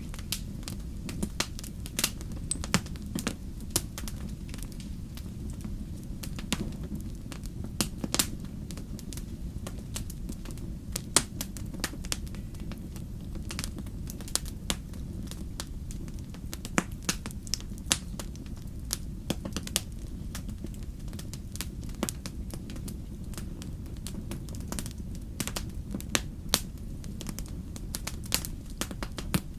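Wood fire burning, with irregular crackles and sharp pops over a steady low rumble of the flames.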